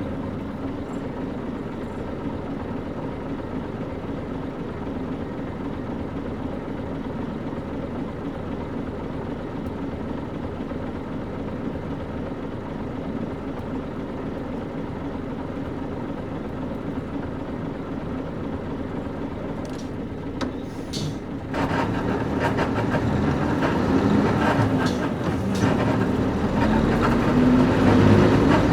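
A KC-UA460LSN bus's PG6 diesel engine idling steadily. After a few clicks about 20 seconds in, the engine gets louder and its note climbs as the bus pulls away and accelerates.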